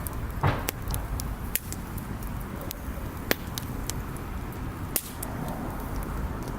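Wood bonfire crackling: irregular sharp pops and snaps over a steady low rush, the loudest pop about half a second in.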